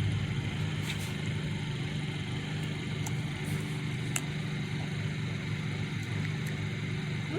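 A steady low mechanical hum, like an engine or motor running, with a few faint ticks.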